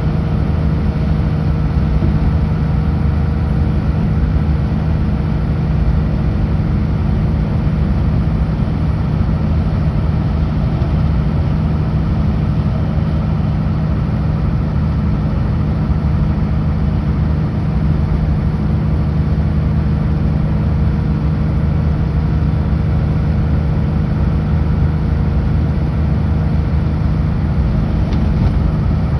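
Kenworth W900L semi truck's diesel engine running steadily at cruising speed, a constant low drone with road noise and no change in revs.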